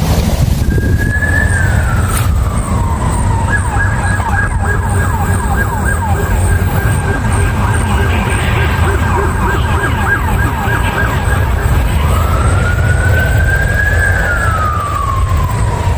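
Emergency-vehicle siren: a slow falling wail, then a fast repeated yelp from about 3 to 11 seconds in, then the slow wail rising and falling again near the end. Steady wind rumble on the microphone underneath.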